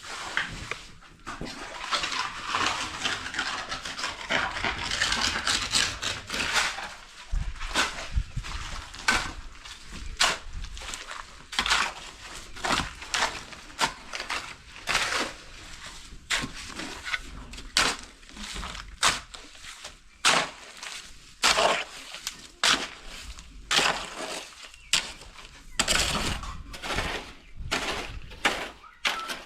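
A long run of scraping followed by many short, sharp scrapes and knocks, irregular, about one or two a second.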